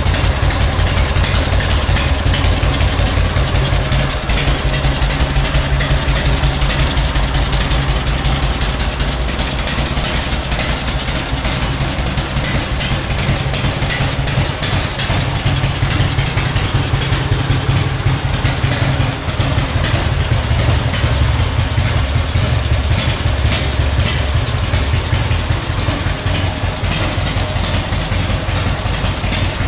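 Harley-Davidson Springer Softail's 1340 Evolution V-twin, fitted with an S&S Super carburettor, idling steadily through its chrome exhaust pipes.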